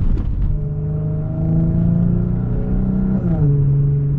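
Audi S4's supercharged 3.0 V6 running through an AWE touring exhaust under light throttle, its note climbing slowly, then dropping quickly about three seconds in and holding steady at the lower pitch.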